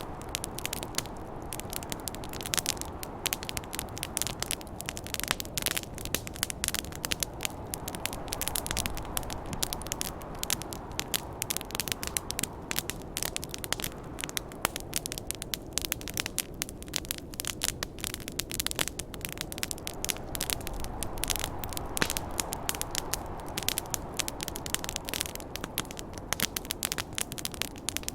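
Wood fire burning with dense, irregular crackling and popping, over a low rushing snowstorm wind that swells and eases.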